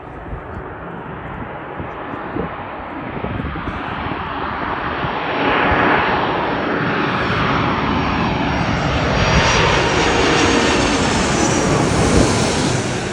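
Airbus A330 airliner's jet engines on landing approach: a steady roar that builds over the first few seconds and holds loud through the second half, with a faint high whine over it.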